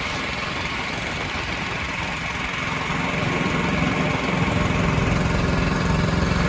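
An engine running steadily with a pulsing low rumble, getting louder about three seconds in.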